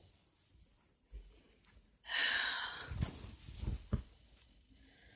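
A person's long, breathy sigh close to the microphone about two seconds in, followed by a few soft low thumps.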